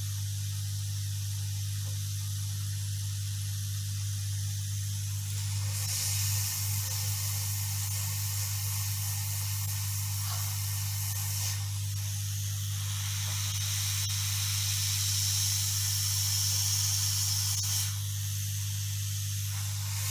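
Hot air rework station blowing on the motherboard to seat a small IC: a loud hiss of air that comes on about six seconds in, dips briefly near the middle and runs strongly again until near the end, over a steady low electrical hum.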